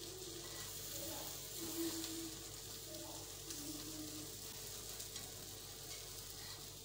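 Shami kebabs frying in shallow oil on a flat tawa, a steady sizzle, as they are turned to cook their second side.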